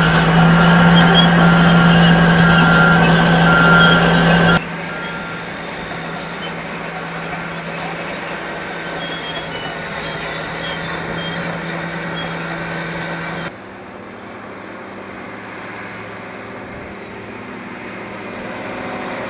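Diesel engines of Caterpillar heavy earthmoving machines running steadily. The sound is loud with a strong steady hum at first, then drops suddenly to a quieter engine sound about four and a half seconds in, and drops again about thirteen seconds in.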